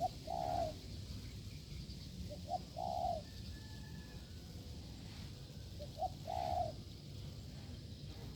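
Spotted dove cooing three times, each call a short note and then a longer one, about every three seconds: the hard cooing of a wild dove drawn in by a decoy bird.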